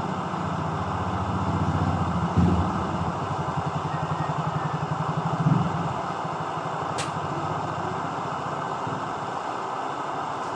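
Optimus 99 camping stove burning with a steady rushing sound and a fast low flutter through the first six seconds or so. There is one sharp metallic click about seven seconds in.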